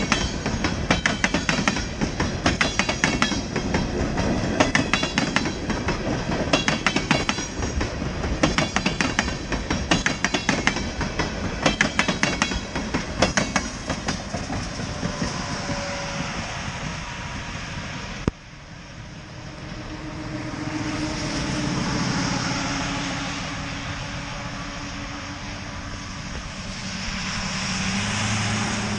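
Freight train cars rolling past with rapid, uneven clickety-clack of the wheels over the rail joints, thinning out and fading after about 14 seconds. An abrupt break comes near the two-thirds mark, followed by a steady rushing noise that swells twice.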